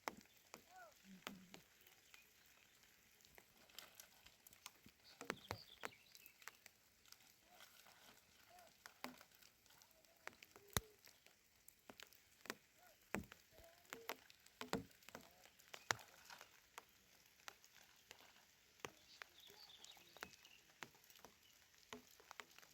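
Faint, irregular sharp clicks and knocks, scattered unevenly, with a few distant voice-like sounds.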